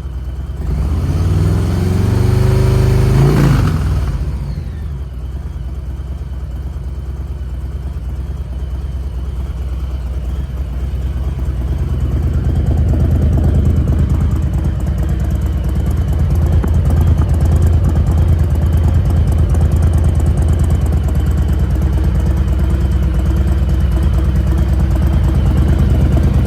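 Harley-Davidson Heritage Softail V-twin running through freshly fitted Cobra 3-inch RPT exhaust: revved once in the first few seconds, rising and falling, then idling steadily with a deep, throaty sound.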